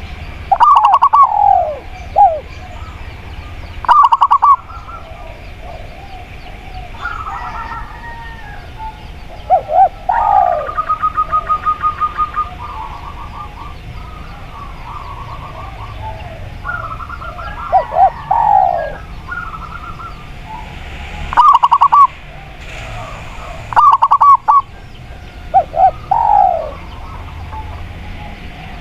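Spotted dove and zebra dove cooing in repeated loud phrases every few seconds, with a quick run of short even notes about ten seconds in, over steady chirping from other birds.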